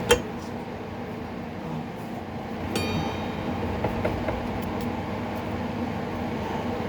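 A sharp metal knock just after the start, then a brief ringing metallic clink about three seconds in, as tools and parts are handled while a mower's PTO clutch and belt are worked on. A steady mechanical hum runs underneath.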